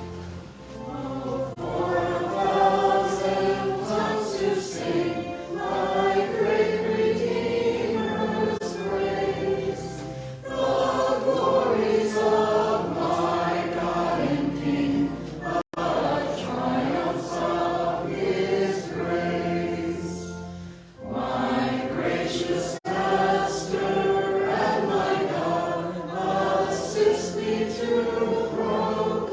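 Choir singing a hymn with instrumental accompaniment holding low notes underneath.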